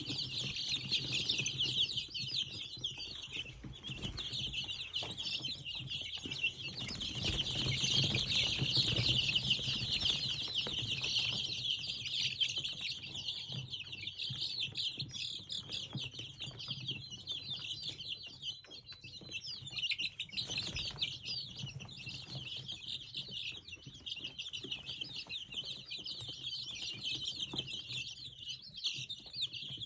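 A brood of ten-day-old village chicken chicks peeping without pause, many high chirps overlapping, loudest about eight to ten seconds in. A faint steady low hum lies underneath.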